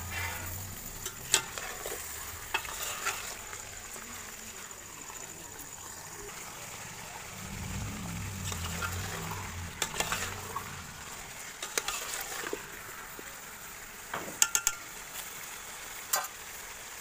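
Raw chicken pieces frying with onions in hot oil in a metal pot, with a steady sizzle. A utensil stirs them, giving sharp clicks and scrapes against the pot every few seconds.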